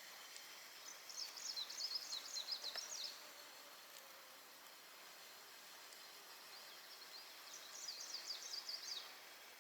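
A small songbird singing two short phrases of quick, high, twittering notes, one about a second in and another near the end, over a faint steady background hiss.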